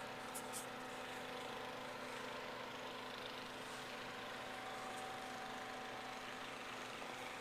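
Steady hum of an idling engine, a few constant tones over an even hiss.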